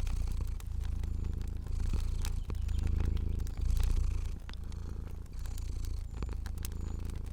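Domestic cat purring steadily, a low rumble that swells and eases with its breathing, over a light crackling of fire with scattered sharp pops.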